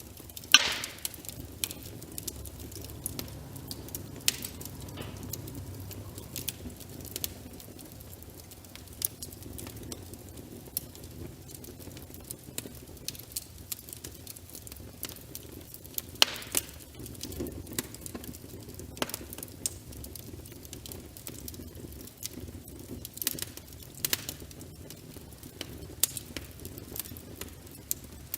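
Fireplace fire crackling, a steady low rumble under frequent small snaps, with a sharp pop about half a second in and a few louder snaps later on.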